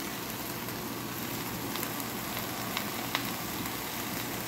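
Fried noodles sizzling steadily in a hot pan, with a few faint clicks of a slotted spatula against the pan.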